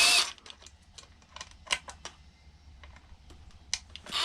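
A short whir right at the start, then scattered light clicks and taps of tools and small parts being handled while a karaoke machine is taken apart to get its small motors loose.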